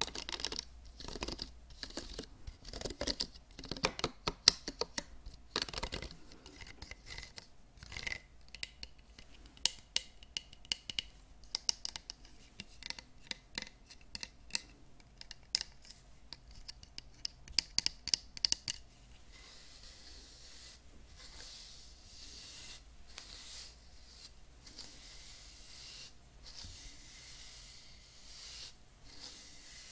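Hairbrushes being scratched and tapped close to the microphone: quick, irregular scratches and sharp clicks from the bristles. About two-thirds of the way through, these give way to a softer, continuous rasping, as of bristles drawn steadily through hair.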